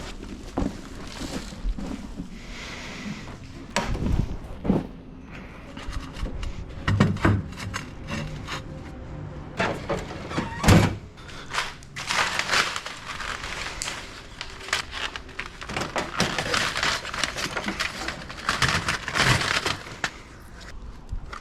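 Rolled carpet, padding and wooden tack strips being handled and loaded: repeated thuds and knocks, with long stretches of rustling and scraping in the second half.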